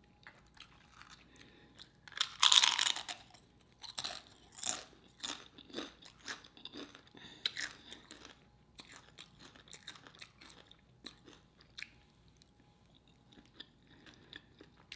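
Close-miked chewing of a mouthful of enchilada and crunchy homemade tortilla chip: one loud crunching bite about two seconds in, then a run of small crunches and mouth sounds that grow sparse near the end.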